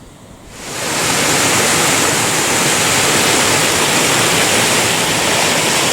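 Water rushing steadily over a small weir, a dense even roar that rises in about half a second in and then holds.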